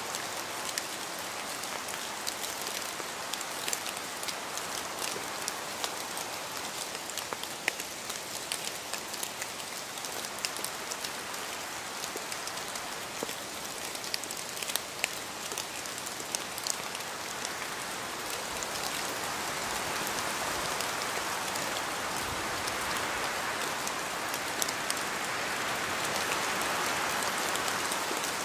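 Steady rain falling, a dense hiss with many sharp individual drops ticking on a surface, growing slightly heavier in the last ten seconds or so.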